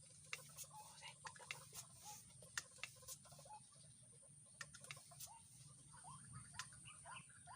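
Near silence: faint, irregular sharp ticks, and from about six seconds in a run of short rising chirps, about two a second, from a small calling animal.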